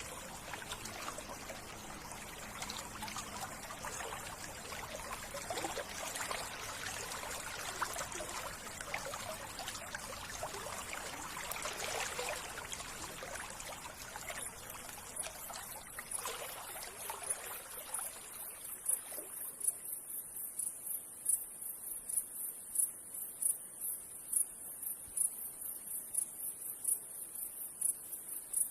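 Water trickling in a steady rush that fades out about two-thirds of the way through. Meanwhile a high-pitched insect chirping, about two chirps a second, comes in and takes over.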